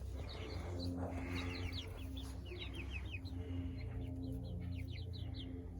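A flock of young chickens peeping, many short high chirps in quick runs, over a steady low hum.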